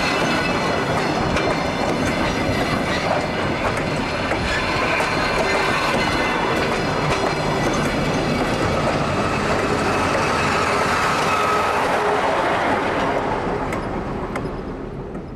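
DR-1A diesel multiple unit running on the rails, wheels clacking over rail joints with some wheel squeal, the noise steady and then fading away near the end.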